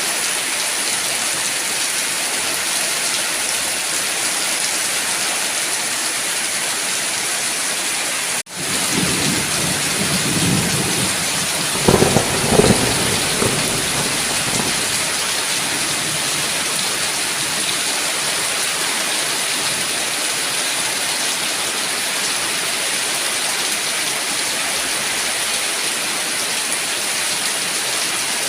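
Steady heavy rain hissing. About eight seconds in the sound cuts out for an instant; thunder then rumbles low, with two sharp claps a little later that fade within a couple of seconds.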